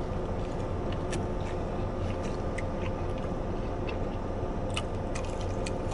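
A mouthful of burger being chewed, with faint scattered clicks, over a steady low hum in the car cabin.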